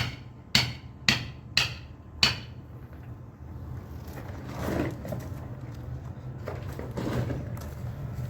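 Caulking mallet striking a caulking iron, driving caulking material into a wooden hull seam. Five sharp, ringing blows come about two a second and stop about two seconds in. A low steady hum and a faint rushing noise run underneath.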